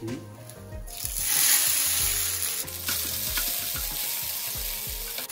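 Chopped ginger dropped into hot oil in a non-stick frying pan sets off a loud sizzle about a second in. The frying then settles to a steady sizzle as it is stirred with a wooden spoon.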